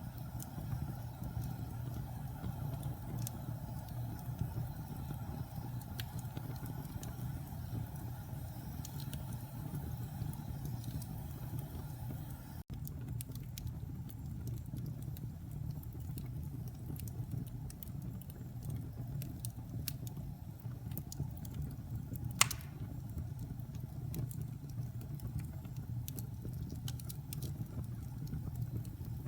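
Wood fire burning in a fireplace: a low steady rumble with scattered small crackles and one sharper pop about three-quarters of the way through. The sound drops out for a split second a little before halfway.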